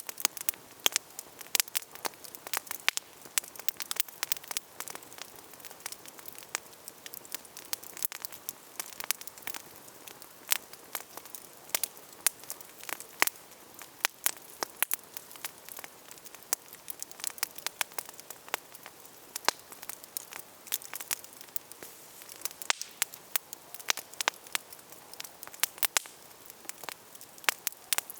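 Wood campfire burning, crackling and popping steadily with many sharp, irregular snaps over a soft hiss.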